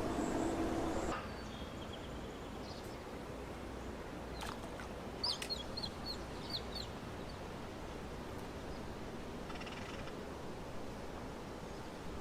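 A bird gives a quick run of short, high chirps about five seconds in, over a steady outdoor background hiss. A louder low sound with a steady tone fades out in the first second.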